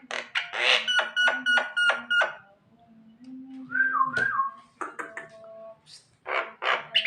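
Javan myna (jalak kebo) calling: a quick run of harsh, clipped notes, about four or five a second, mixed with whistled notes, then a falling two-note whistle about four seconds in and more harsh notes near the end.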